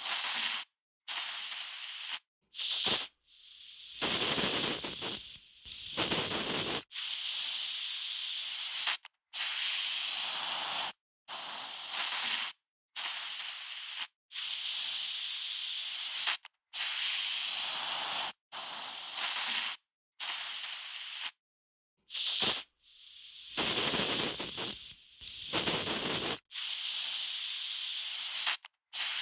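Aerosol spray can spraying in many short bursts, each from under a second to about two seconds long, the hiss stopping dead between them. A few bursts sound fuller and deeper than the rest.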